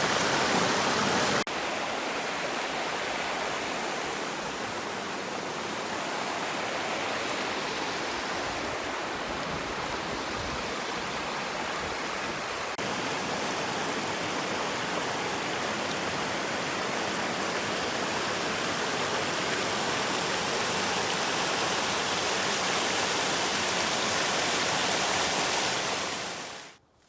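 Steady rush of fast-flowing water in a mountain stream. The level drops suddenly about a second and a half in and changes again about halfway through, then fades out just before the end.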